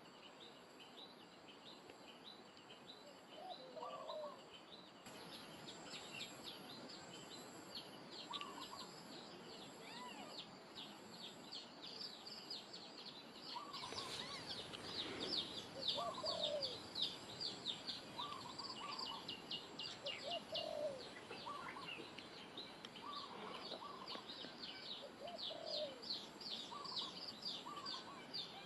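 Many small birds chirping in quick, dense runs, with short lower calls every second or two, over a steady background hiss that grows louder about halfway through.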